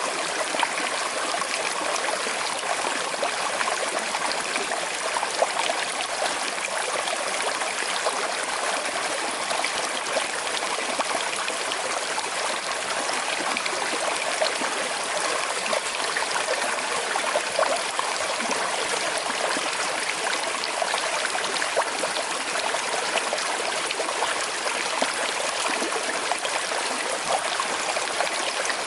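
Small river with a slight current flowing steadily: an even rush of water, flecked with many tiny splashes.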